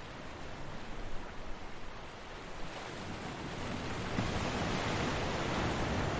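Ocean surf washing on a beach: a steady hiss of moving water, with a wave swelling louder about halfway through and staying strong to the end.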